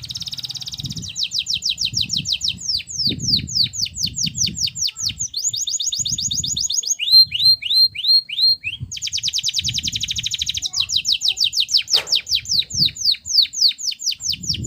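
Domestic canary singing a long, unbroken song of fast trills and rapidly repeated falling whistled notes, switching from one phrase to the next with hardly a pause.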